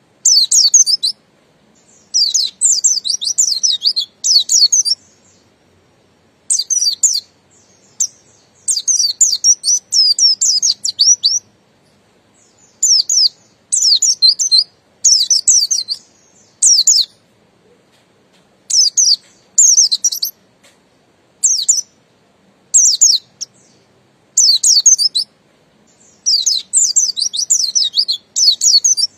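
Pleci buxtoni white-eye singing: bursts of rapid, high twittering phrases, each from under a second to about three seconds long, repeated with short pauses between.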